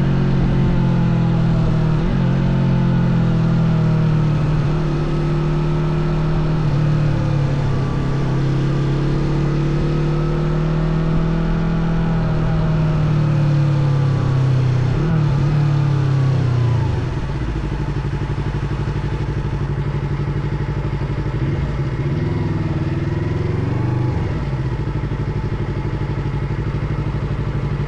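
Yamaha R25 motorcycle engine running, its revs rising and falling for the first two-thirds. It then drops suddenly to a quieter, steady running note for the rest.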